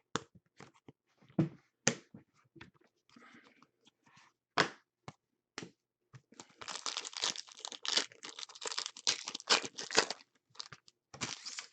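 Trading cards being handled with scattered light clicks and rustles, then about six seconds in a foil trading-card pack wrapper is torn open and crinkled for about four seconds, with a last short crinkle near the end.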